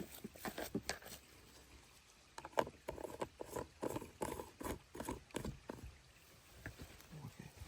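Irregular light knocks and clicks, several a second, as of objects being handled, with a short lull about two seconds in and a sharper tap at the very end.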